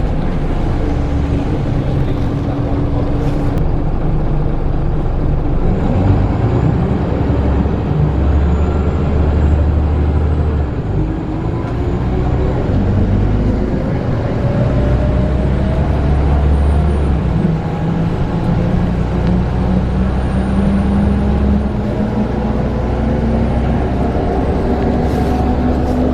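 Scania L94UB single-deck bus's diesel engine running under way, its note climbing several times as the bus pulls and changes up through its gears.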